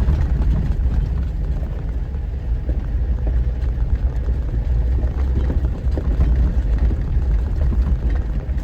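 Steady low rumble of a vehicle driving a rough mountain trail, heard from inside the cab, with scattered small rattles and knocks.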